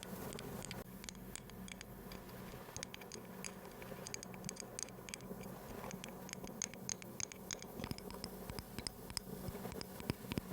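Close-miked ASMR trigger sounds: many quick, irregular light taps and clicks with a scratchy texture.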